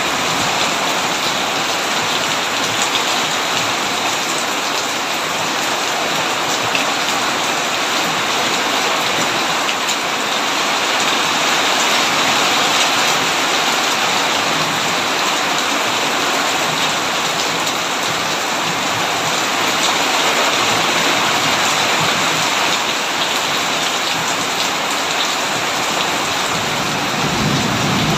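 Heavy rain pouring steadily on a tin roof, a dense even hiss with no let-up. A low rumble comes in near the end.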